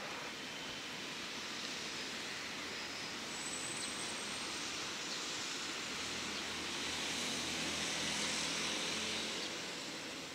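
Distant rumble of a container freight train pulling away down the line: a steady hiss that swells with a faint low hum about six to nine seconds in.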